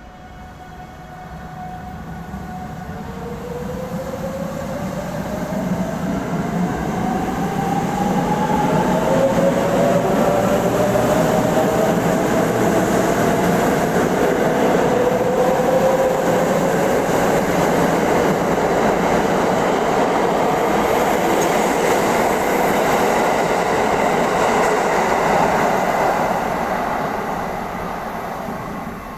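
Train running past on the rails, growing loud over the first several seconds with whines rising in pitch as it gathers speed, then a steady loud rumble that eases near the end.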